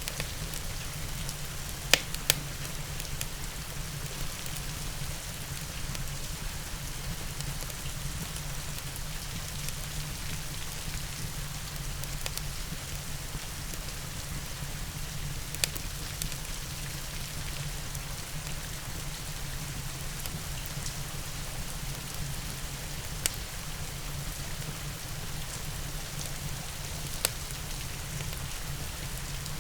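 Steady rain with a low, even rumble underneath, broken by five sharp pops of a wood fire crackling; the loudest comes about two seconds in.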